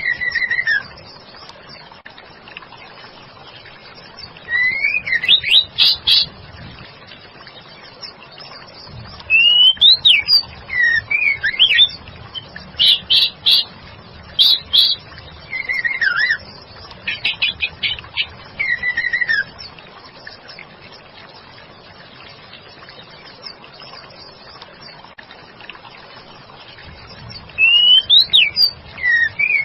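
Female white-rumped shama (murai batu) singing in short bursts: fast trains of repeated notes and downward-slurred whistles, with pauses of a few seconds between phrases over a steady low hiss.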